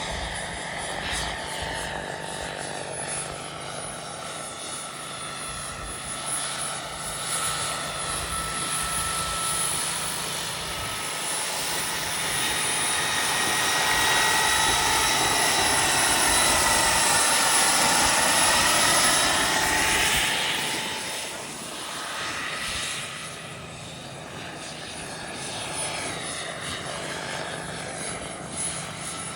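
Turbine-powered RC scale helicopter in flight: a steady high turbine whine mixed with rotor noise. It grows louder and sweeps in pitch as it passes close, loudest about halfway through, then fades somewhat.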